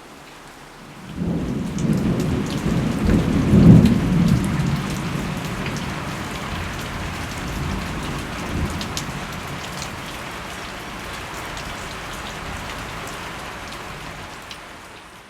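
Thunder rolling over steady rain: a low rumble builds about a second in, is loudest around four seconds in and fades away over several seconds while the rain keeps falling. The sound stops abruptly at the very end.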